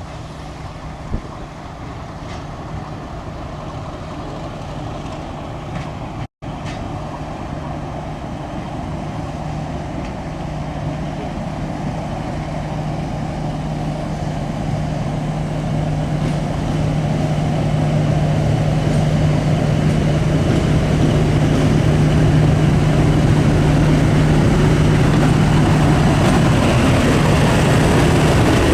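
British Rail diesel locomotive running under power as it approaches, its steady engine note growing louder. The sound cuts out briefly about six seconds in.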